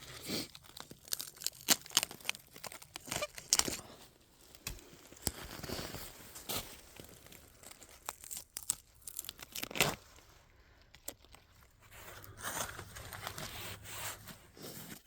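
Plant material being picked and torn off by hand: an irregular series of sharp tearing and snapping sounds.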